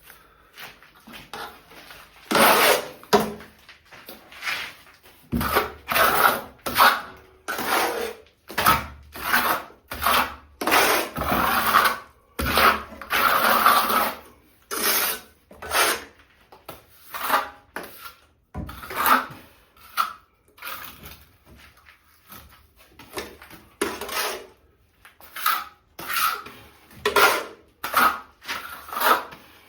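A tool working sand and cement mortar, making repeated scraping strokes somewhat under one a second and at an uneven pace.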